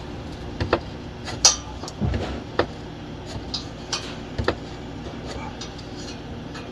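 Scattered sharp metal taps and clinks, with a duller knock about two seconds in, as a screwdriver works at a Dodge Charger's exhaust hanger to pry the pipe loose. A steady low hum runs underneath.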